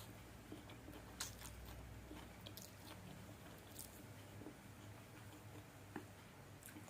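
Quiet, close-up chewing of a mouthful of fried noodles, with soft wet mouth clicks and smacks; a sharper click comes about a second in and another near the end.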